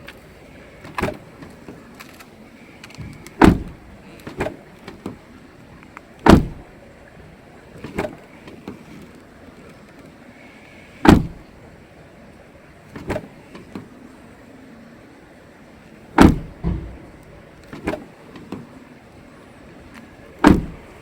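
Toyota Harrier car door being opened and shut repeatedly: smaller latch clicks as it opens, then a heavy slam, about five shuts in all, spaced a few seconds apart.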